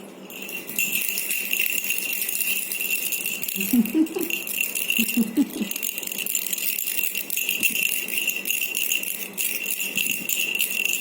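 A jingling toy rattle shaken steadily and continuously, starting just under a second in. A couple of short vocal sounds come about four and five seconds in.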